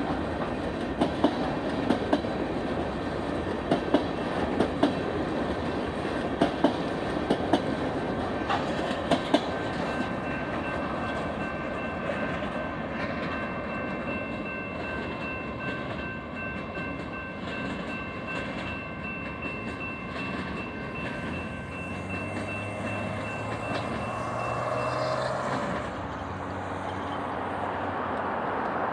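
Freight train hopper cars rolling past, their wheels clicking in pairs over the rail joints for the first ten seconds or so, then the sound fades as the end of the train moves away, with a thin steady high ringing tone through the middle. Road vehicles start to pass near the end.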